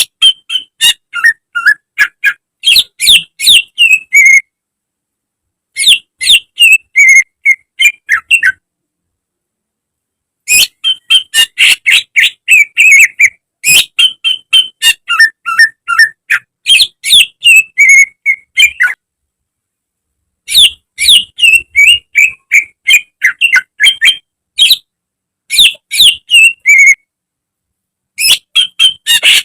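Cucak ijo (green leafbird) singing: rapid runs of short, whistled and chattering notes in loud phrases of a few seconds, broken by sudden silent gaps.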